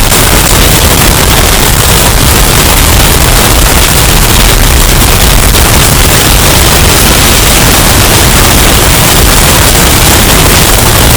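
Hurricane wind sound effect, bass boosted and clipped into a loud, distorted roar of noise with a heavy rumbling low end.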